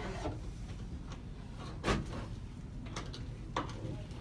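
Porcelain toilet bowl being twisted and lifted off its floor flange, giving a few short knocks and clunks, the loudest about two seconds in and another near the end.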